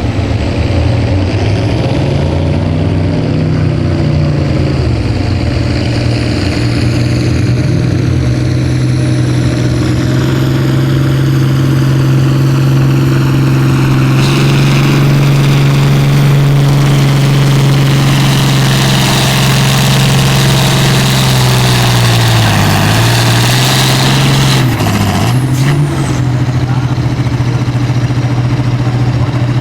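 A pulling tractor's diesel engine running hard and steadily, with a high whistle climbing slowly in pitch above it. About halfway through the sound grows louder and harsher. Near the end the engine note dips in pitch twice, then settles back to a steady run.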